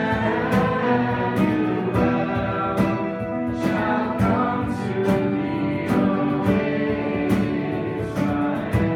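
Worship song: singing over guitar and instruments, with a steady beat.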